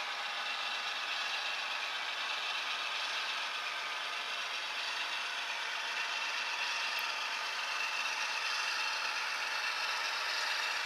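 HO scale model train running along the track, a steady mechanical rattle of its wheels and geared drives that grows a little louder near the end.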